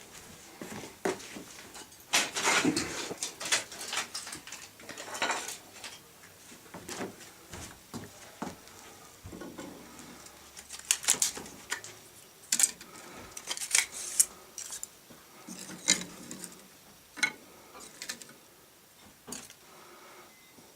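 Small split birch sticks being laid one by one on top of a log stack inside a steel stove's firebox, knocking and clinking against the wood and metal in an irregular string of sharp knocks.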